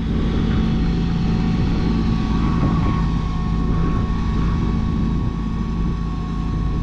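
Rollback truck's big-block 366 V8 engine running steadily, purring along, with a thin steady high-pitched tone over its low hum.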